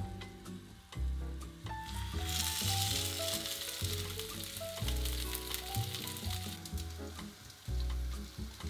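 Food laid into hot oil in a frying pan, sizzling. The sizzle comes in about two seconds in, stays strong for several seconds, then eases to a lighter crackle.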